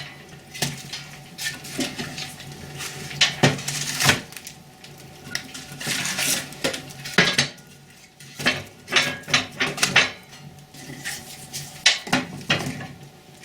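Firewood logs being laid into a cast-iron fireplace firebox: a string of irregular wooden knocks and clattering as the logs strike each other and the iron.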